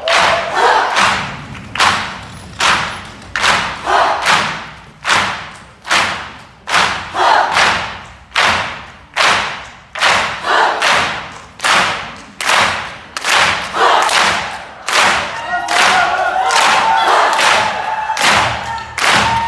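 Ensemble of Korean drums struck hard together in unison beats, about two strokes a second, the strokes packing closer in the last few seconds as a held pitched sound joins in.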